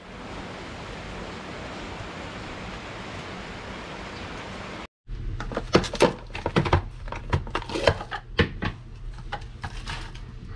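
A steady hiss for about five seconds, then, after a sudden cut, a quick run of sharp clicks and knocks, like small hard objects being handled and set down.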